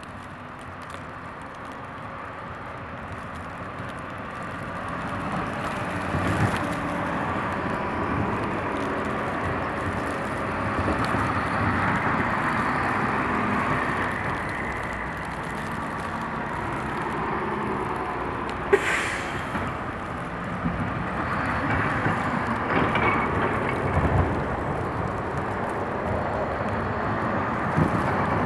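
Heavy vehicles driving past on a snowy city street, the engine and road noise building, easing and swelling again as they pass. A short sharp hiss cuts in about two-thirds of the way through.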